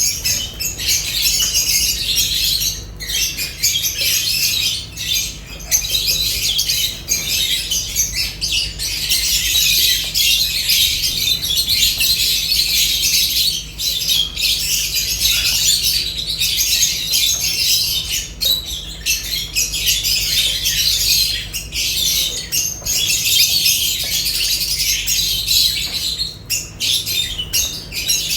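A flock of lovebirds chattering and squawking, a dense, continuous high-pitched chorus of chirps and screeches with only brief lulls.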